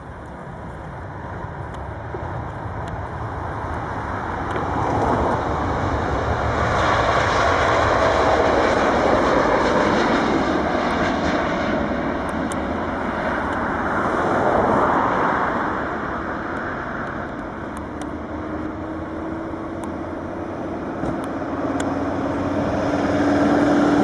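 Boeing 787-8 jet engines at take-off power, a broad roar that builds over the first several seconds, swells twice and eases off a little as the airliner climbs away.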